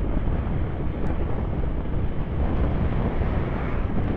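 Wind rushing over the rider's microphone while riding an electric scooter, a steady low rumbling noise with tyre and road noise beneath it.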